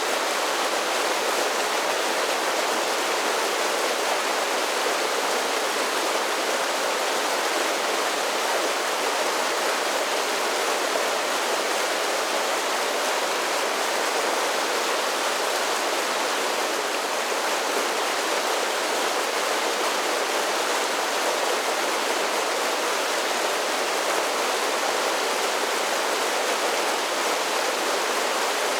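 Mountain creek cascading over a series of small falls: a steady, even rush of falling water.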